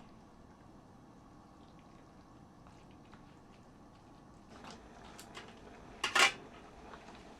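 Utensils knocking against cookware: a few light taps about four and a half seconds in, then one loud double clatter about six seconds in, over a quiet background.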